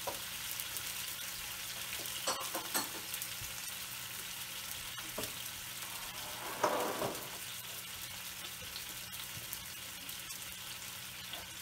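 Sliced carrots and onions sizzling steadily in oil and stock in a non-stick wok over a gas flame. A couple of light clicks come a few seconds in, and a brief louder knock a little past halfway.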